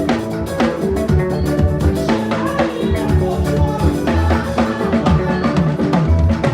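A drum kit played in a busy, fast pattern of bass drum, snare and rim hits over backing music that holds sustained pitched notes.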